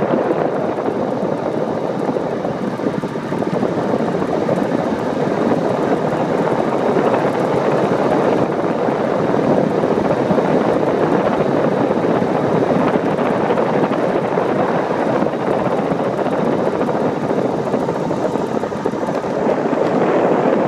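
Steady rush of wind buffeting the camera microphone while riding a bicycle.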